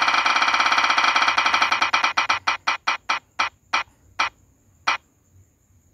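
Spinning prize-wheel ticking sound effect: rapid clicks that slow down and spread apart as the wheel comes to a stop. The last few ticks are half a second or more apart, ending about five seconds in.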